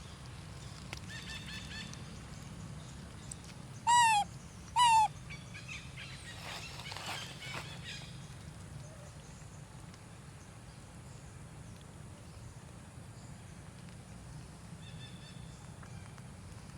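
Two short, loud, high-pitched animal calls about a second apart, each dipping slightly in pitch, over a steady outdoor background with a few faint chirps.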